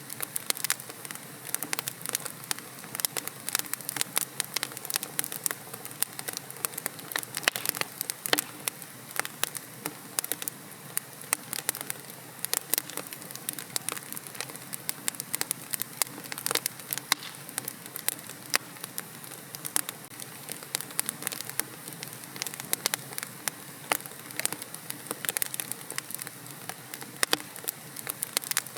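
Wood fire in a fireplace crackling: logs burning with a steady soft hiss and many irregular sharp pops and snaps.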